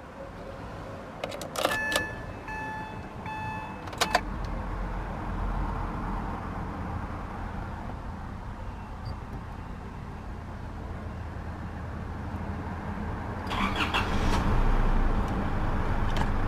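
Isuzu D-Max 2.5-litre twin-turbo four-cylinder diesel being started: dashboard warning chimes beep three times near the start, then about 13 seconds in the engine cranks, fires right up and settles into a steady idle.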